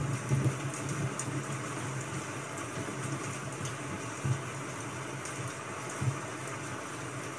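Rain ambience: a steady even hiss with a few faint ticks.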